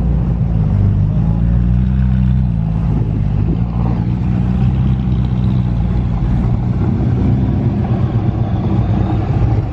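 Car engine running at low revs, a steady low rumble that shifts slightly about two and a half seconds in.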